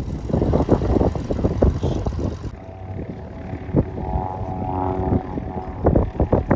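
Light propeller airplane engine running, heard as a steady hum made of several even tones, with wind buffeting the microphone in thumps and gusts. The sound changes abruptly about two and a half seconds in, and the wind noise swells again near the end.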